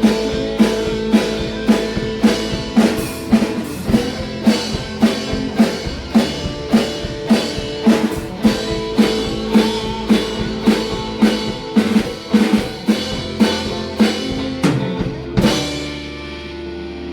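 A rock band playing instrumentally: drum kit hitting a steady beat about two and a half times a second under sustained guitar and bass. Near the end, a final crash and chord ring out.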